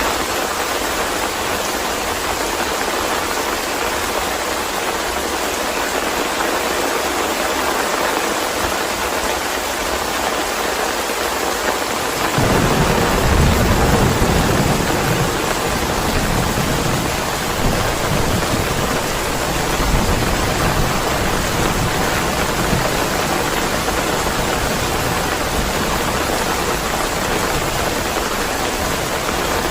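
Steady heavy rain. About twelve seconds in, a roll of thunder rumbles low, loudest for a couple of seconds, then fades slowly with a few smaller swells.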